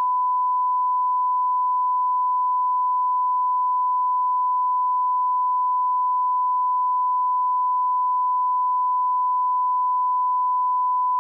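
Steady 1 kHz sine-wave line-up tone at −18 dB, a continuous test tone used to align audio levels.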